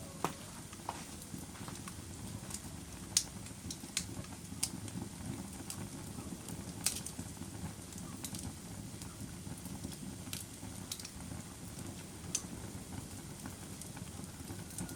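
Wood fire in a fireplace crackling: a steady low rush of burning with scattered, irregular sharp pops and snaps, the loudest about three seconds in and again near seven seconds.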